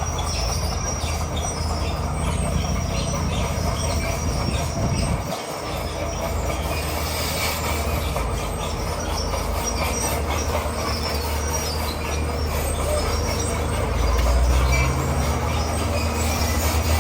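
Crawler bulldozer at work on loose stone: its diesel engine runs steadily under the squeal and clatter of its steel tracks. The engine swells louder about fourteen seconds in.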